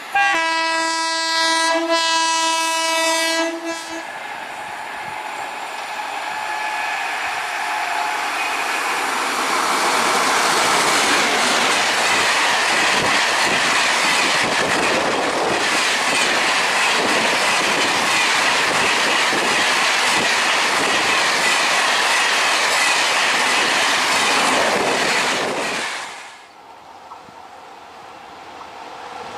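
Indian Railways electric train sounding one long air-horn blast of about four seconds, then rushing past at speed with its wheels clattering over the rails for over fifteen seconds. The rush ends sharply as the last coach goes by.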